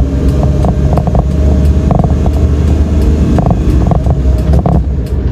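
Manual-transmission car rolling at low speed, heard from inside the cabin: a steady low rumble of engine and road noise with a scattering of short, irregular knocks.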